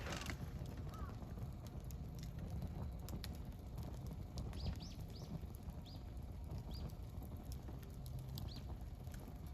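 Wood campfire burning: a steady low rumble of flame with scattered crackles and sharp pops from the burning wood.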